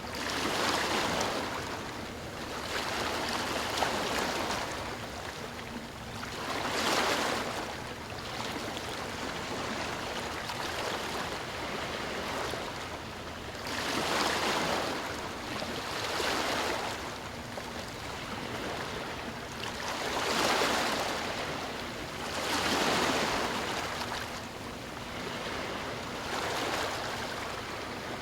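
Sea waves washing in and receding: a steady rushing surf that swells into louder surges every few seconds.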